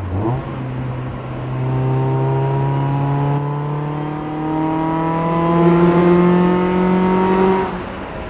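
NB Mazda Miata's 1.8-litre four-cylinder engine and exhaust pulling hard under acceleration, its note climbing steadily through one long run in a gear. The sound is loudest late in the run and drops sharply near the end.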